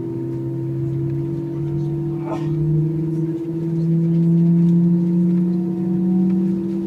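Airbus A319's CFM56 jet engines heard from inside the cabin as a steady hum: one tone holds while a lower tone climbs slowly in pitch as the engines spool up.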